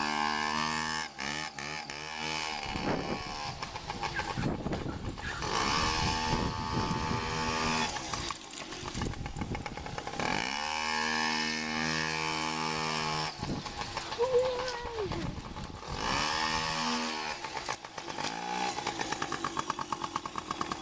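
Small motorbike engine being ridden, revving up and easing off again about four times.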